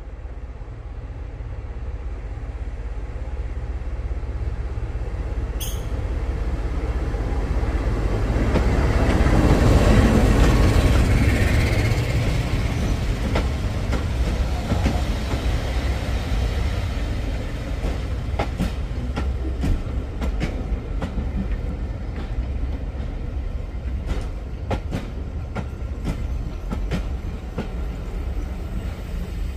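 Heritage train passing close by, growing louder to a peak about ten seconds in. The coaches then roll past with a steady clickety-clack of wheels over the rail joints.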